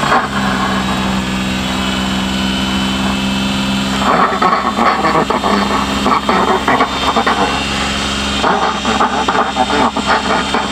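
Suzuki Carry DD51T's small three-cylinder engine idling steadily, with a run of light rattles and knocks over it from about four seconds in.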